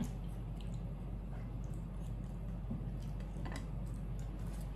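Faint wet chewing and small mouth clicks from someone eating, over a steady low hum.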